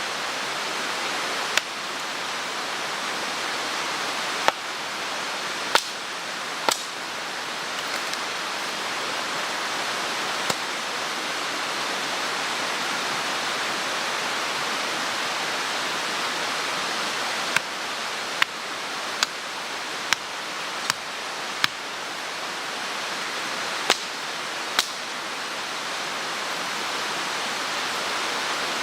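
Mountain stream rushing steadily, with about a dozen sharp knocks scattered through it, several in quick succession about two-thirds of the way through.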